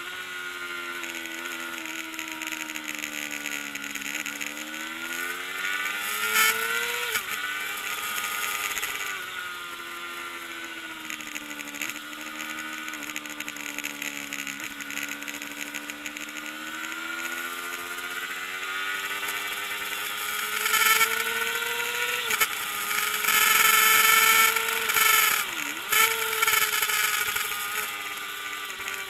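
Kawasaki ZXR400 race bike's inline four-cylinder engine running hard, its pitch repeatedly climbing and sinking as it pulls through the gears and drops back into the corners, with a few sudden dips in revs. A louder stretch of rushing noise comes about three quarters of the way in.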